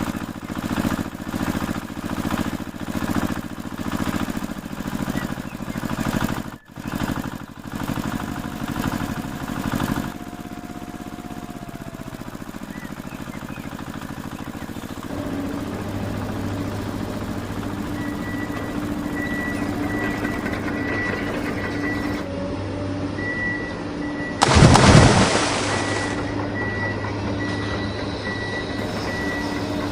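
Small motors of a homemade mini JCB backhoe and tractor running. The motor sound pulses rhythmically at first, then settles into a steady hum with a faint high beep coming and going. There is one loud rushing burst lasting about a second, near the 25-second mark.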